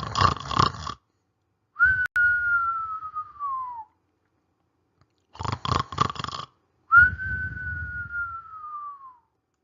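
A cartoon-style snore done twice for a sleeping character: each time a rattling snore, then a long, slowly falling whistle.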